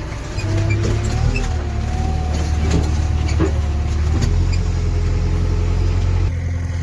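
JCB 3DX backhoe loader's diesel engine running as the machine drives. Its low engine note steps to a new pitch a few times, with a couple of brief knocks around the middle.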